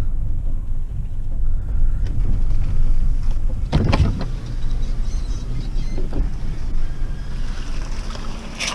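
Vehicle driving, heard from inside the cab as a steady low rumble, with a sharp thump about four seconds in and a fainter knock a couple of seconds later.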